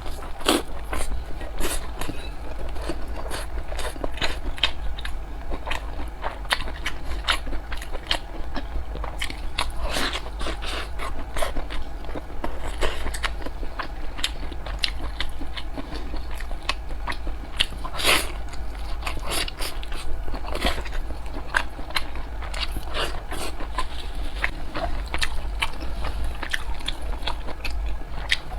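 Close-up chewing of large steamed dumplings: a steady run of irregular wet mouth clicks and smacks as the soft wrapper and filling are bitten and chewed.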